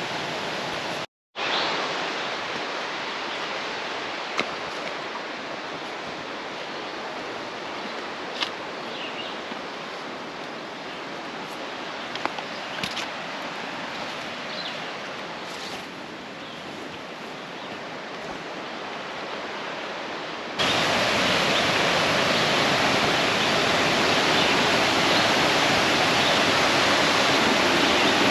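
Creek water rushing over rocks, a steady hiss with a few faint clicks; after a brief dropout near the start, it jumps about two-thirds of the way through to a louder, fuller rush of water.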